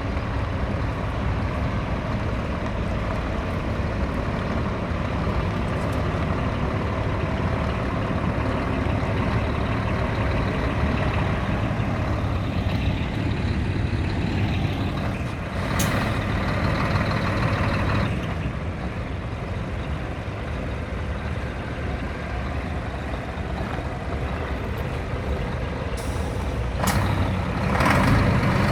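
Scania truck's diesel engine running steadily, with a short burst of air hiss about halfway through and a few more quick hisses near the end.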